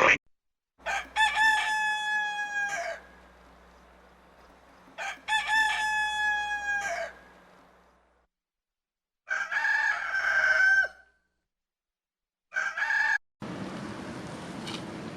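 Rooster crowing: two long crows of about two seconds each, then a shorter crow and a brief call. A steady hiss comes in near the end.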